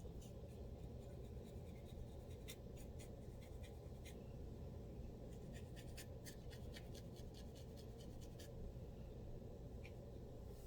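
A scalp being scratched to loosen dandruff: faint, irregular scratching strokes, some in quick runs, over a steady low hum.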